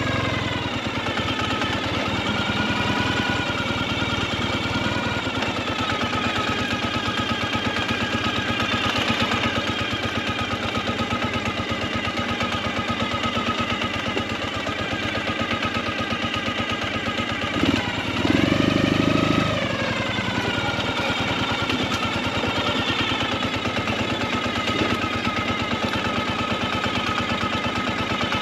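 Motorcycle engine running under way, a rapid even pulsing from its firing strokes, its pitch rising and falling with the throttle. A short louder low rumble comes about two-thirds of the way through.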